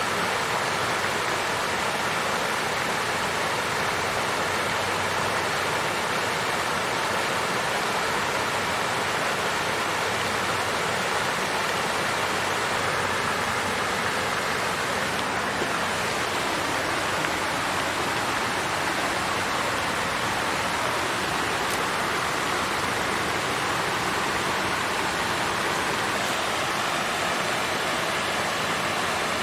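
Water fountain splashing and flowing in a steady, even rush.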